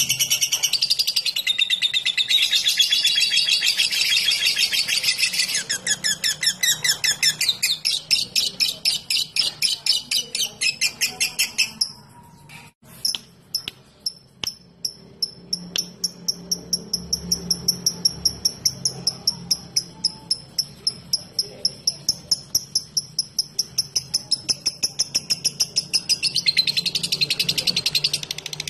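Lovebird chattering in long runs of rapid, evenly repeated high-pitched chirps: the 'ngekek' and 'ngetik' song that keepers use to set other lovebirds singing. The chatter stops briefly about twelve seconds in, picks up again as a quicker, lighter ticking series, and swells to a dense chatter near the end.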